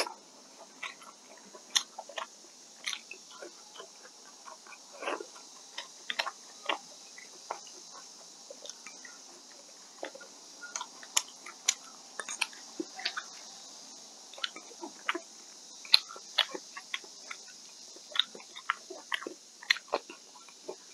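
A person chewing mouthfuls of rice and side dishes, with irregular wet smacks and short mouth clicks several times a second.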